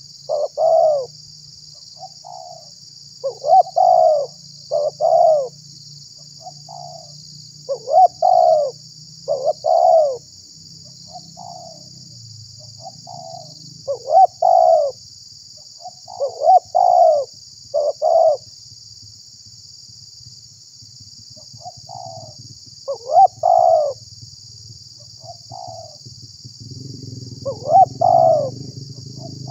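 Spotted dove cooing: phrases of several short, rounded coos repeated every few seconds, over a steady high hiss.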